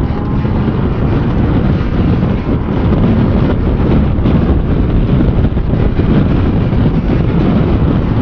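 Wind rushing over the microphone of a moving motorcycle, with the engine and road noise beneath, steady throughout.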